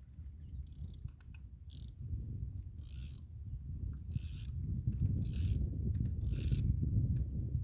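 Fishing reel ratcheting in four short bursts about a second apart, over a steady low rumble.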